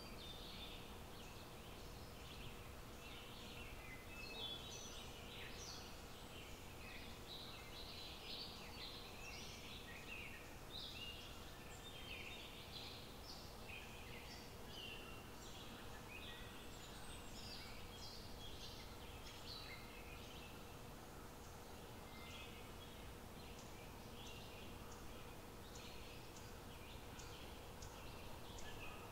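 Faint birds chirping in many short, irregular calls over a low, steady background hiss, with a faint steady hum underneath.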